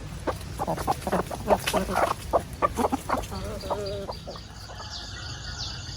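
Hens clucking in a rapid, irregular series of short calls, with one longer drawn-out call about three and a half seconds in.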